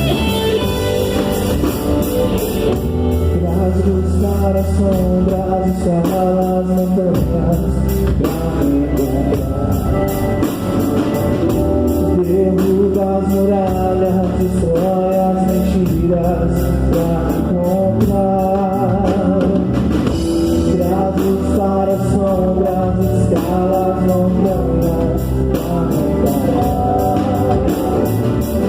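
Live worship band playing a praise song, with electric guitar, bass and drum kit under a sung melody.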